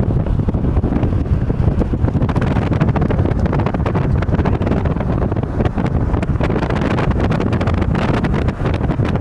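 Steady low rumble of a car driving, with road and engine noise and wind buffeting the microphone, dotted with frequent small clicks and knocks.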